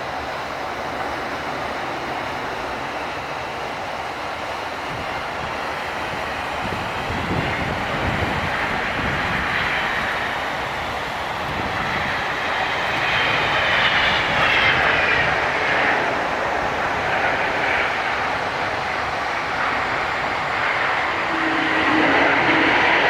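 Boeing 777 jet airliner on landing approach, its engines giving a steady rushing noise with a high whine that bends in pitch as the aircraft passes, growing louder toward the end.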